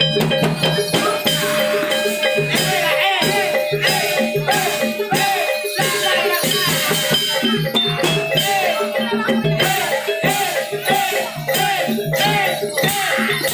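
Javanese gamelan-style barongan accompaniment music playing steadily with a regular percussion beat, pitched melody notes that bend, and jingling rattles.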